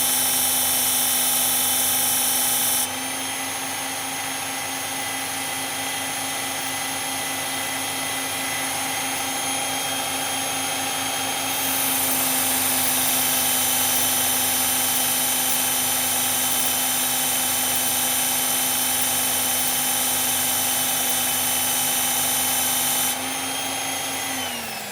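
Electric belt sharpener running steadily with a knife blade being ground on the abrasive belt. It steps quieter about three seconds in and louder again near the middle, and near the end the motor is switched off and winds down with a falling pitch.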